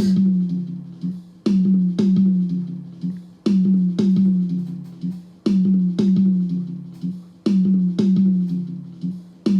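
An isolated recorded tom-tom track (the first tom) played back on its own, struck in pairs half a second apart every two seconds. Each hit rings with a low note that drops a little in pitch as it dies away.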